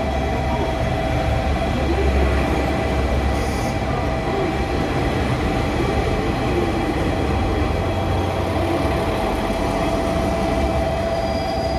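A train at a station: a steady low rumble with a constant whine.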